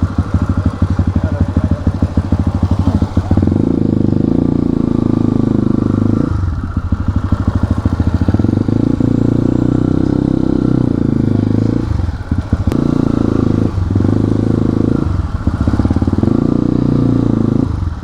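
Motorcycle engine running while riding, with the throttle easing off briefly several times (about six, twelve, fourteen, fifteen and eighteen seconds in) before picking up again.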